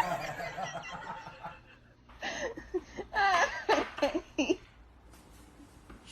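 A person laughing in a cluster of short bursts, a couple of seconds in.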